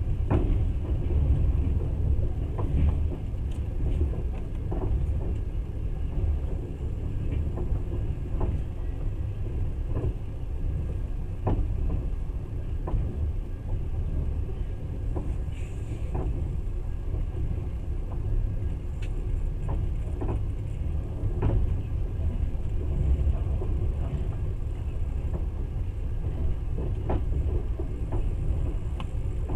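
Passenger train running: a steady low rumble of wheels on the rails, heard from inside the carriage, with scattered light clicks and knocks.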